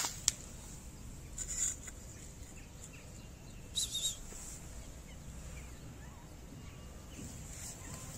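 Two short bursts of high chirping, the first about one and a half seconds in and the second about four seconds in, from a small bird, over steady outdoor background noise, with a couple of clicks at the start.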